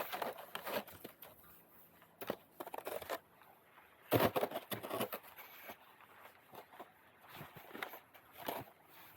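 Snow crunching and scraping in irregular bursts as a roof rake drags snow off a roof, the loudest burst about four seconds in.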